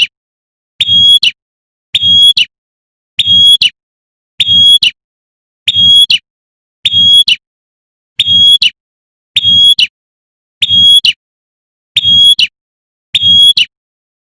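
Female prenjak (prinia) giving its rapid 'tembakan' call, repeated as a steady loop: short, high calls of about half a second, roughly one every second and a quarter.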